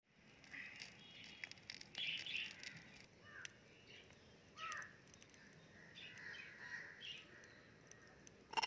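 Faint birdsong: scattered chirps and a few short calls that slide downward in pitch.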